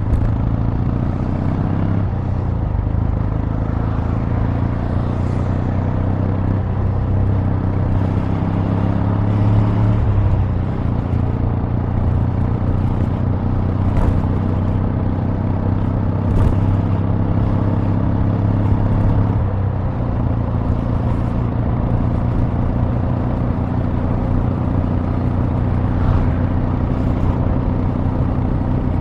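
Kawasaki W800's air-cooled 773 cc parallel-twin engine heard through its exhaust while riding, a steady low engine note whose pitch shifts a few times as the revs change.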